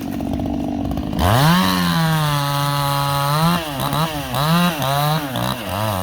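Two-stroke chainsaw running at low speed, then revved up about a second in and held at high speed, then dropping and rising again several times in the last couple of seconds.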